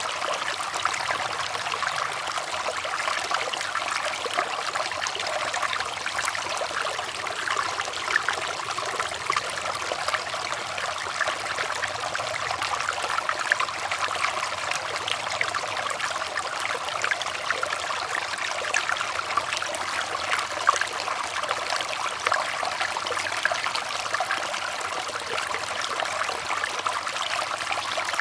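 Water running and trickling steadily, with many small splashes and bubbles.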